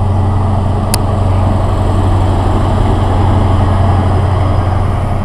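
A train running close by: a steady low drone with rumbling noise, swelling slightly in the middle, and a single sharp click about a second in.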